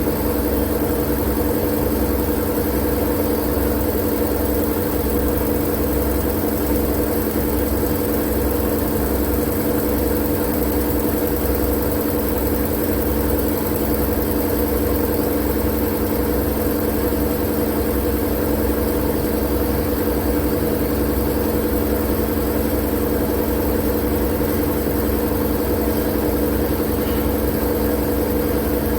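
Steady machine-like hum used as sleep white noise: a drone with a few fixed tones, a low rumble and a hiss, that never changes.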